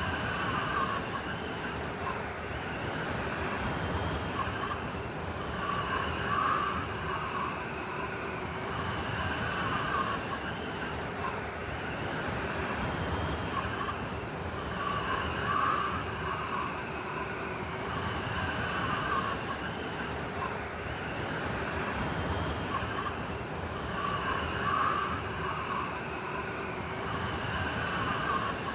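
Blizzard wind blowing hard and steadily, with a whistling edge and swells in gusts that recur about every nine seconds.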